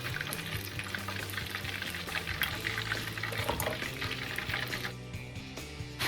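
Hot deep-frying oil bubbling and spitting with a steady crackling hiss as leftover water from the battered chicken boils off in it. The crackle drops away briefly near the end.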